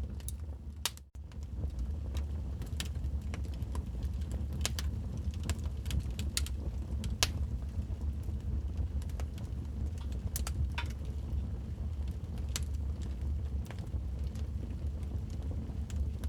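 Wood fire crackling in a fireplace: irregular sharp pops and snaps over a steady low rumble of burning. The sound drops out for an instant about a second in.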